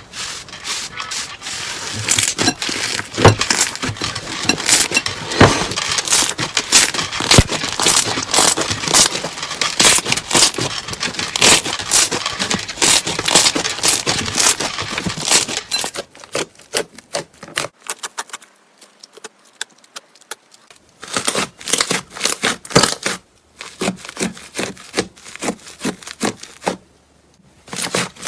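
Slime being played with by hand, giving dense crackling and popping clicks; after about two-thirds of the way through the clicks turn sparser, with short quiet gaps between bouts.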